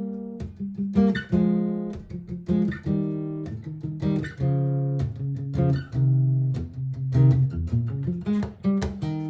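Martin GPCPA4 acoustic-electric guitar playing a song's opening: a run of plucked and strummed chords, each note ringing on.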